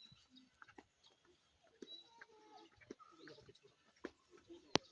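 Faint outdoor ambience with scattered short, high bird chirps and a rising bird call, and a sharp click near the end.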